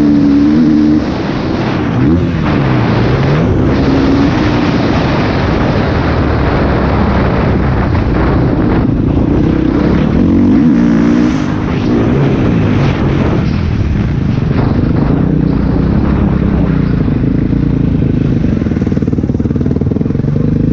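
Motocross bike engine heard from on board, revving up and down, its pitch rising and falling as the throttle opens and closes.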